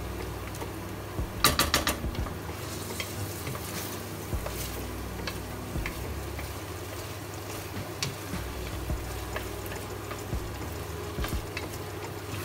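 Onions and tomato sauce sizzling in oil in a pressure cooker pot while a spoon stirs and scrapes through them. About a second and a half in there is a short run of sharp knocks of the spoon against the pot.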